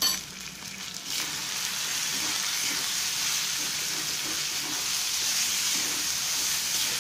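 Minced mutton (keema) sizzling as it fries over high heat in a wok, growing louder about a second in, while a spatula stirs and scrapes through it. A short click at the very start.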